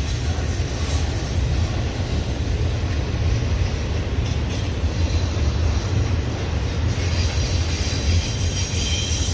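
Union Pacific intermodal freight train rolling past, its cars making a steady low rumble.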